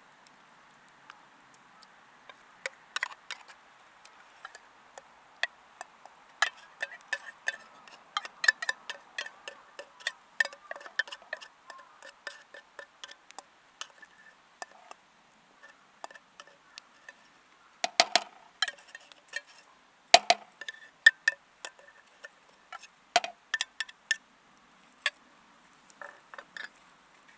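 Irregular light clicks and clinks of camp cooking utensils being handled, with a few duller knocks about two-thirds of the way through.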